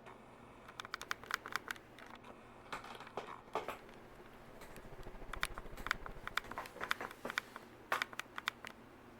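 Faint, irregular light clicking and crackling, with a faint low hum about halfway through.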